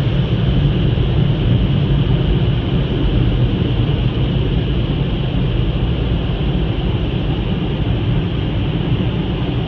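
Automatic touchless car wash equipment running with a steady, loud rushing noise.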